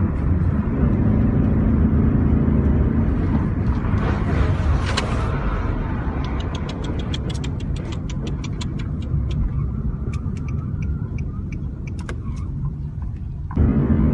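Road vehicle in motion: a steady low rumble of engine and road noise, with a run of quick sharp ticks from about six seconds in, at first about five a second and then sparser. The sound changes abruptly near the end.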